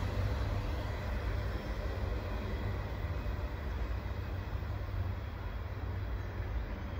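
Autorack freight cars rolling away on the rails: a steady low rumble of wheels on track, slowly fading.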